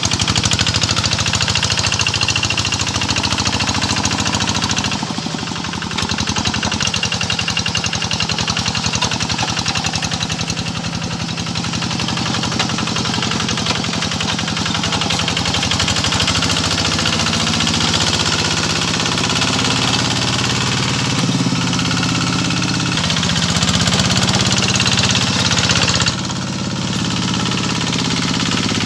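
A rice-field tractor's engine running steadily with a fast, even chugging beat while pulling a harrow. The engine note dips briefly about five seconds in and drops again near the end.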